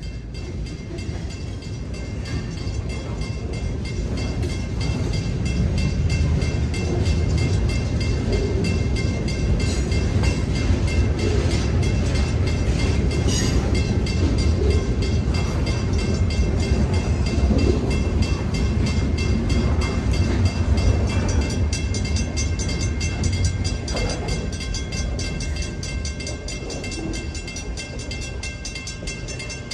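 Freight train boxcars rolling through a grade crossing: a steady rumble and rattle of wheels on rail that builds over the first few seconds, then fades over the last several seconds as the end of the train clears. A crossing bell rings steadily throughout.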